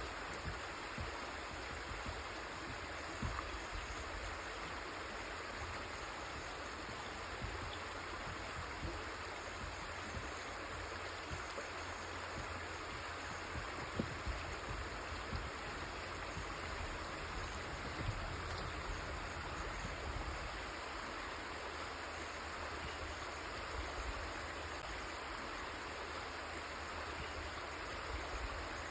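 River water flowing steadily over rocks, an even rushing with small splashes and gurgles scattered through. A low rumble runs underneath.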